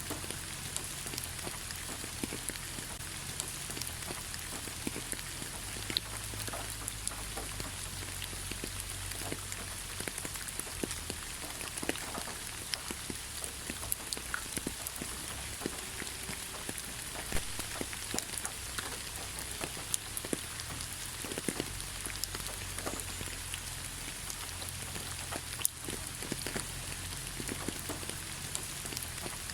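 Steady rain falling in a pine forest, a constant hiss with many separate drops ticking on nearby surfaces.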